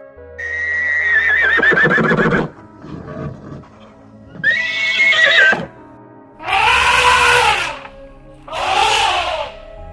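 A horse whinnying twice, the first call long with a wavering, shaking pitch that drops away, followed by two shorter bleats, over soft background music.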